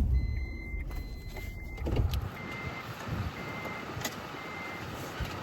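Repeated electronic beeping: a few quick beeps, then fainter beeps about once a second, over a low rumble with occasional knocks.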